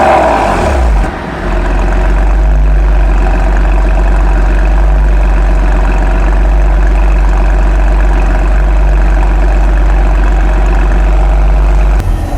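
Porsche 996 Carrera 2's 3.4-litre flat-six with its catalytic converters removed. The revs fall away in the first second or so, and then it settles into a loud, steady idle.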